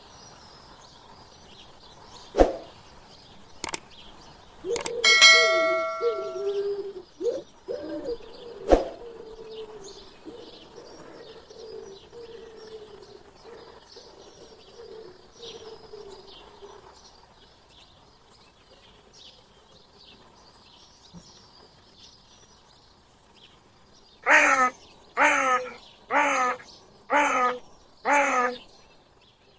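Small birds chirping faintly throughout. Several sharp clicks and a ringing metallic clang come in the first nine seconds, and near the end there are five loud, evenly spaced calls about a second apart.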